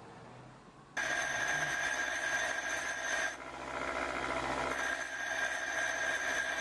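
Electric drill running with a steady high whine that starts suddenly about a second in. For about a second and a half in the middle the whine gives way to a rougher grinding sound as the bit works into the metal, then it returns.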